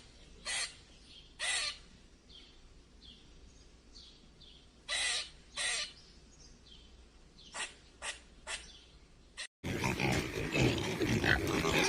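A bird giving short harsh calls: two about a second apart near the start, a pair around the middle, then four shorter ones in quick succession near the end, with faint high chirps between them.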